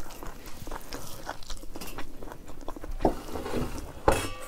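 Close-miked chewing and wet mouth clicks of someone eating a meal of rice with her hand, with small ticks throughout and a sharper click about four seconds in.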